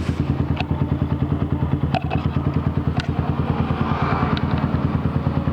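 Yamaha Vixion 150cc single-cylinder four-stroke idling through a CLD Racing aftermarket exhaust: a steady, even exhaust pulse of about a dozen beats a second, with a few faint ticks.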